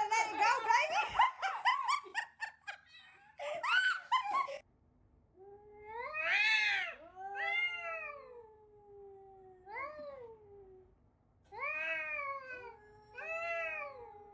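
A cat yowling in a fast, wavering run of calls that stops abruptly. Then come long drawn-out meows, each rising and falling in pitch, about every second or two.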